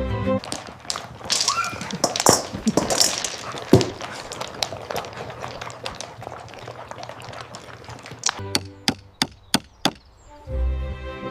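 A jumble of sharp knocks and scuffling with a brief rising squeal, then a quick run of about seven sharp taps.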